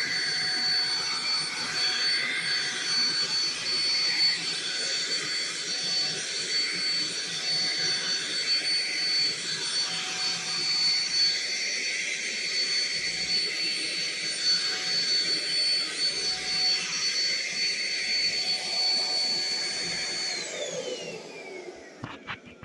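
Black & Decker 3-in-1 stick vacuum running steadily, a motor whine over the rush of suction. About 20 seconds in it is switched off and the whine falls as the motor spins down.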